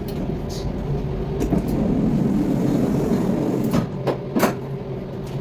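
Passenger train running, a steady low rumble heard from inside the carriage, with a few sharp knocks and clicks, the loudest about four seconds in.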